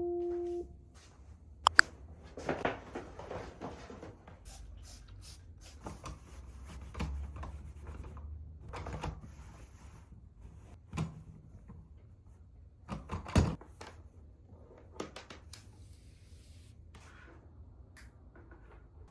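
Kitchen handling sounds: scattered knocks, clicks and light clatter of items being picked up and set down, with a louder knock about 13 seconds in, over a low hum.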